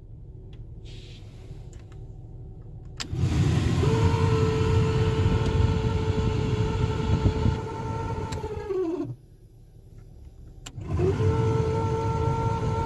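Car HVAC blower motor switched on with a click about three seconds in, spinning up to a steady whine over a rushing, rumbling airflow. Just past the middle it is switched off with another click and the whine falls in pitch as the fan winds down. After a short quiet spell it is switched on again and spins back up. The whine is the sign of a blower motor damaged internally, likely a bad bearing.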